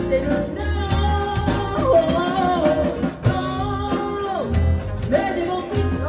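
A live band playing a pop-rock song: a sung melody over guitar, with bass and drums underneath.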